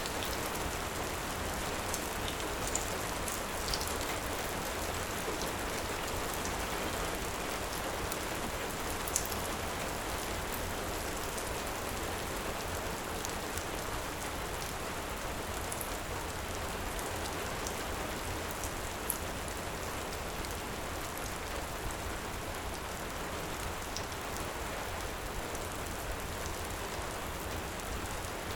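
Steady heavy rain, an even rushing hiss, with a few faint sharp crackles from a wood fire now and then.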